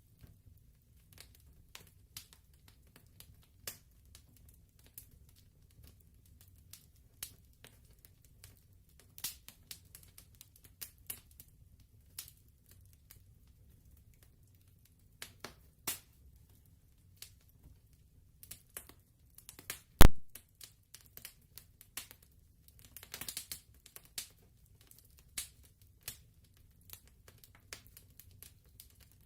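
Wood fire crackling: scattered small sharp pops and crackles, with one much louder pop about two-thirds of the way through and a quick flurry of crackles shortly after.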